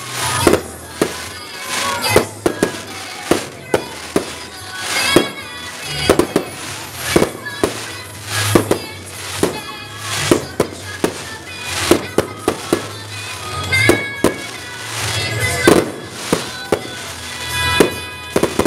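Aerial fireworks shells bursting in a rapid, irregular series of sharp bangs, with music playing underneath.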